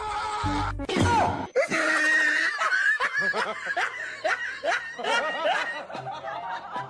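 A person laughing in a run of short, repeated bursts, following a brief end of music and a falling vocal glide.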